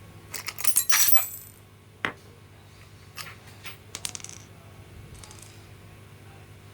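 Small metal parts clinking and ringing against each other and a hard surface: a quick rattle of clinks in the first second or so, then a few single sharp clicks.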